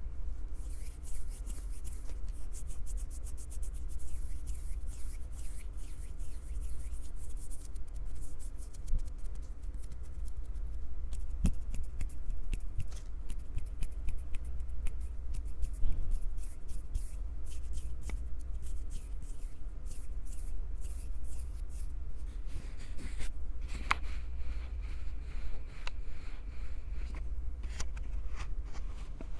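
Hands gripping, squeezing and rubbing a Tascam portable recorder right at its microphones: dense, fast crackling and scratching over a steady low rumble of handling noise, with a few sharper taps.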